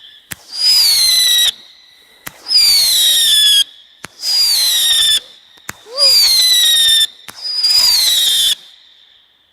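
Weco Blizzard Star whistling firework battery firing: five shots, each a sharp pop followed by a high whistle about a second long that drops slightly in pitch, one every one and a half to two seconds. The last whistle trails off near the end.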